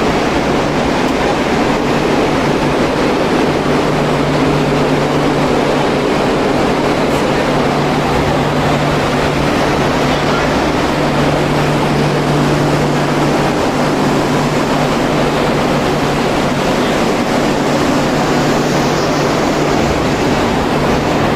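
Steady vehicle noise: a constant low drone under an even rush of noise, with no change in pitch or level.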